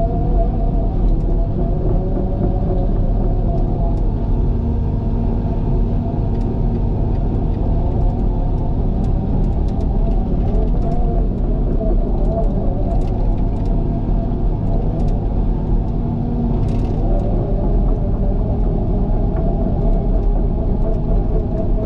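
Diesel engine of a heavy earthmoving machine running steadily, a loud continuous rumble, with faint clicks and rattles of the machine at work.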